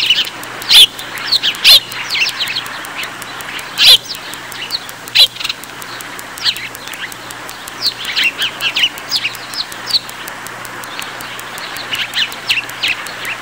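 Birds chirping: many short, sharp, high calls, clustered near the start, around four seconds in and again past eight seconds. Under them runs a steady hiss with a faint low hum.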